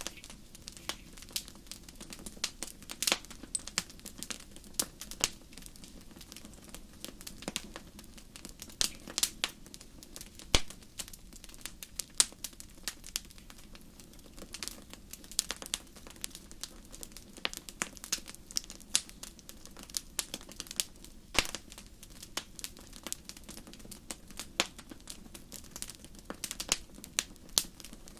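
Wood fire crackling in a fireplace: irregular sharp pops and snaps over a steady low rush of flames.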